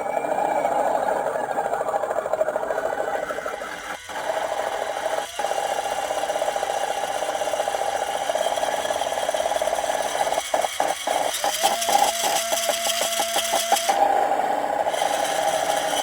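WPL RES V3 sound module in a WPL C24-1 RC truck playing a simulated engine sound through its small speaker, steady at first with two brief dropouts, then cutting in and out rapidly for a few seconds from about ten seconds in. The sound kit is dropping out as the truck's speed is increased, a fault not yet traced.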